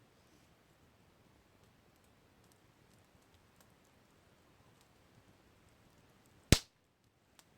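Campfire crackling faintly with scattered small ticks, then one loud, sharp pop near the end, as a piece of burning wood snaps.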